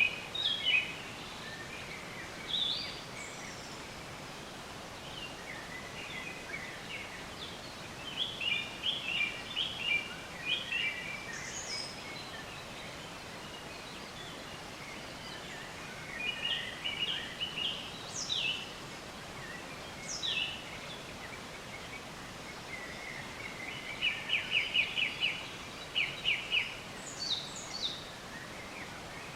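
Wild songbirds chirping in bursts, with rapid trills and quick falling whistles, over a steady background hiss.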